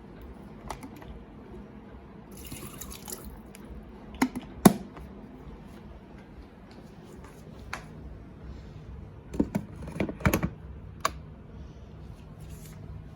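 Water briefly run into a kettle, followed by sharp clunks and clicks as the kettle is handled and set down, the loudest about a third of the way in. A low steady hum comes in about halfway through.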